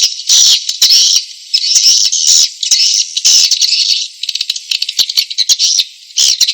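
Recorded swiftlet calls, the lure call used in swiftlet farming to draw swiftlets in to nest: loud, high-pitched chattering twitters in bursts about every half second, with quick runs of clicking rattles around the middle. The track holds nothing below the high calls.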